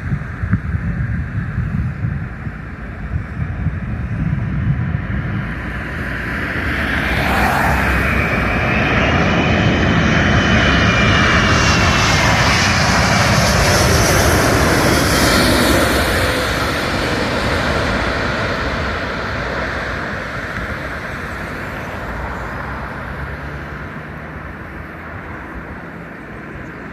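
Emirates Airbus A380 jet engines on approach to land, swelling as the airliner passes and then slowly fading, with an engine whine that falls in pitch as it goes by. Wind gusts on the microphone are heard at first.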